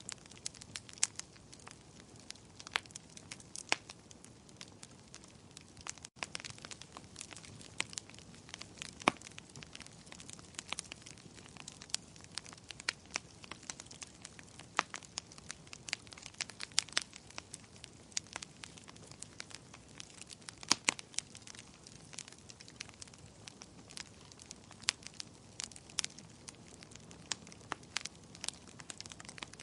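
Wood fire in a fireplace crackling, with many irregular sharp pops and snaps over a soft, steady hiss of the flames.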